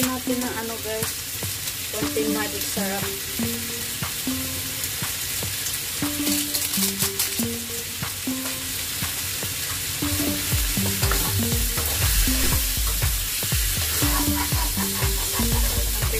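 Chicken, carrots and potatoes sizzling as they fry in a stainless steel wok, with a spatula scraping and stirring the pan, busier and louder from about halfway through.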